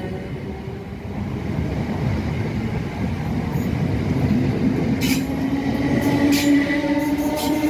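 Train running along the track: a steady low rumble of wheels on rail with a steady whine. About five seconds in, a run of sharp clicks begins from the wheels on the track.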